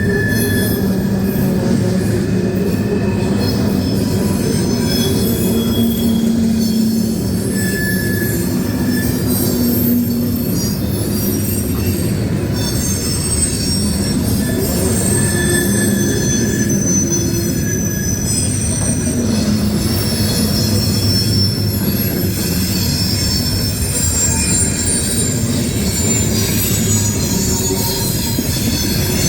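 Loaded coal hopper cars rolling past at speed: a steady rumble of steel wheels on rail, with short high-pitched wheel squeals coming and going throughout.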